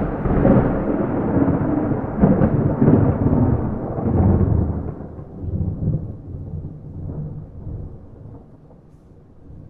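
Thunder rolling, a deep rumble that swells in several peaks over the first few seconds and then slowly dies away.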